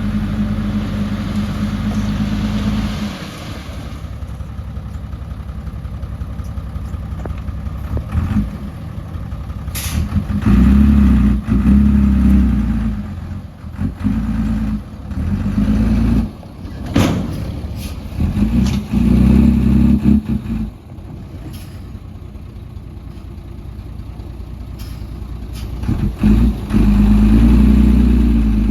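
Heavy diesel engines of an excavator and dump trucks working. The engine runs steadily, then revs up in repeated bursts during the middle and again near the end, with a few sharp knocks.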